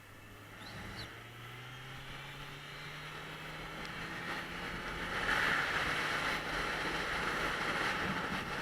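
Kawasaki Z900's inline-four engine pulling steadily, its note rising slowly in pitch and getting louder as the bike gathers speed, with wind rush building from about halfway through. It breathes through an Akrapovič slip-on with the stock catalytic converter box still in place, which keeps the exhaust quiet, a bit like a Hoover.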